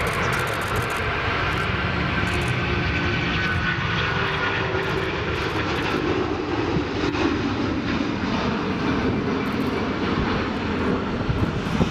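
An airliner's engines passing close by, a steady roar with a whine that slides slowly down in pitch, with wind rumbling on the microphone.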